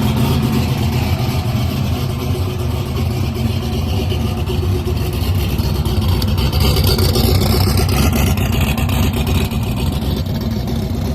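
A race car's V8 engine running loud and steady at high revs, as in a burnout.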